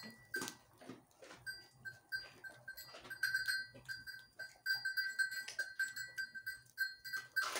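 A small metal bell clinking irregularly again and again, each strike ringing at the same high pitch, like a bell hung on a grazing animal.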